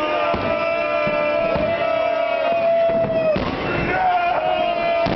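Festive fireworks salute: several sharp bangs a second or so apart, over music carrying a long held note that breaks and shifts pitch about three seconds in.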